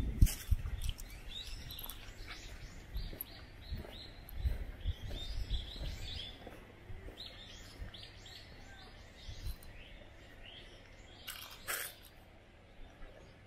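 Small birds chirping: a quick string of short high notes repeating over and over. Low thuds sound through the first few seconds, and a short rustle comes near the end.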